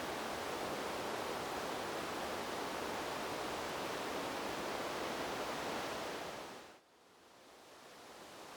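Steady rushing noise of wind blowing through trees. About seven seconds in it fades quickly almost to nothing, then slowly swells back.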